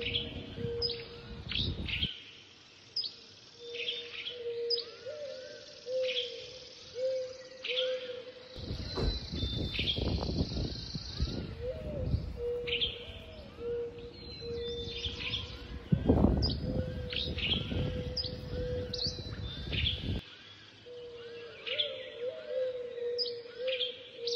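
Several birds singing and chirping in short repeated phrases, over a steady low tone, with light wind gusting in twice, about a third of the way in and again about two-thirds in.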